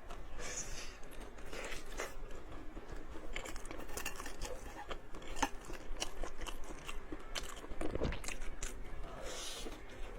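Close-miked eating: a person biting and chewing food, with many short crunchy clicks throughout.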